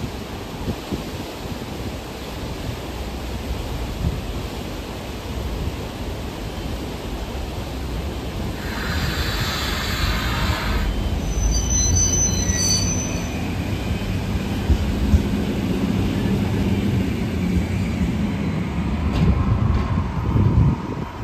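Rhaetian Railway metre-gauge electric train running on street track, approaching and passing close by. Its low rumble of motors and wheels builds as it comes level. There is a short hiss about nine seconds in and a brief high squeal around twelve seconds in.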